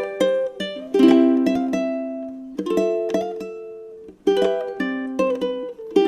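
Solo ukulele playing a slow melody: single plucked notes and chords that ring out and fade, each held for a second or more before the next is played.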